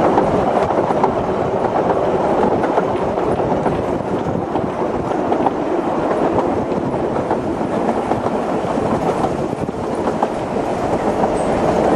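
Narrow-gauge steam train running along the line: a steady rumble of carriage wheels on the rails, with frequent clicks of the wheels over the track.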